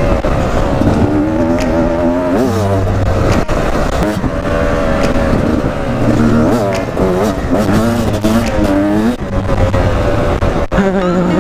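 Beta 250 RR two-stroke single-cylinder enduro motorcycle engine revving hard under way, its pitch climbing and dropping again and again as the throttle is opened and closed.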